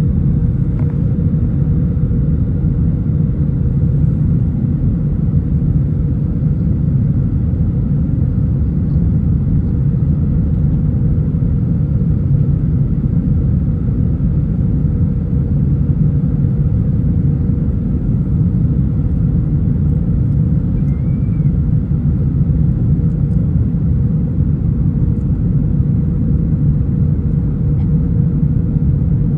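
Steady low rumble of engine and airflow noise inside an Airbus A320's cabin, with a steady mid-pitched hum over it.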